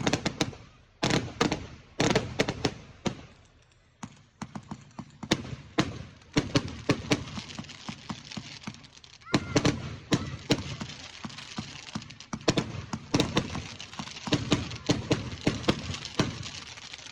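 Fireworks going off in rapid succession: clusters of sharp bangs and crackling reports, several a second, with a hissing crackle filling the middle stretch.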